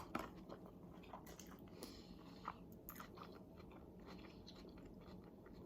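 Faint close-up chewing: soft, scattered mouth clicks and smacks of someone eating.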